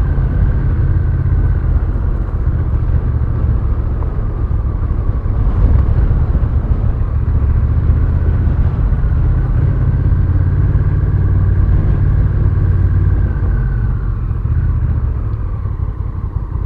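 Honda Rebel 1100 parallel-twin motorcycle under way, its engine running steadily under a constant rumble of wind and road noise; it eases off and gets a little quieter near the end.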